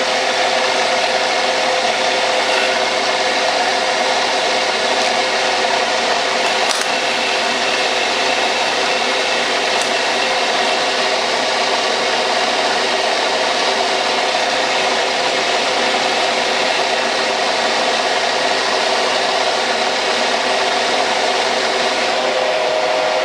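Metal lathe running as its cutting tool takes a steady pass along a tapered metal part: a continuous cutting hiss over a steady machine hum.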